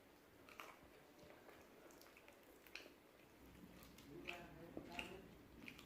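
Close-up biting and chewing of crispy fried chicken, with scattered small crunches and wet mouth sounds.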